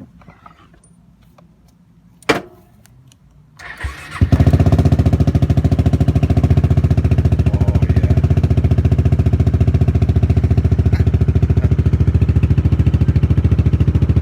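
A click about two seconds in, then a brief crank and the Yamaha Majesty scooter's single-cylinder engine catches just after four seconds and idles steadily with a fast, even pulse through a cheap aftermarket muffler.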